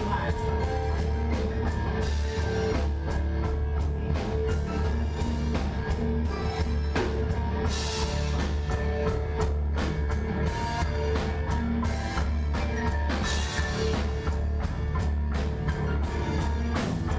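Live rock band playing an instrumental passage: a steady, fast drum-kit beat with a bass and electric guitar underneath.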